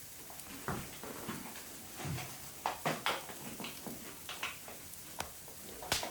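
A stomach grumbling with low gurgles, among scattered sharp clicks and crackles.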